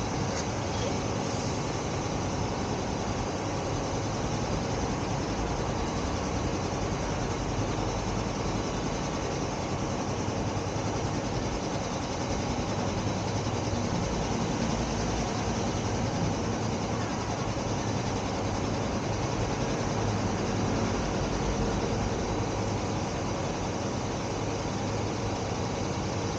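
Steady road noise of a moving car: tyre rumble and wind noise with the engine's low hum underneath, holding an even level throughout.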